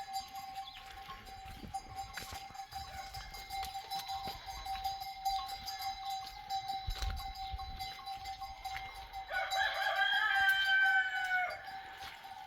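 A rooster crows once, about nine seconds in: one long call that falls slightly in pitch at the end. A steady tone runs underneath throughout.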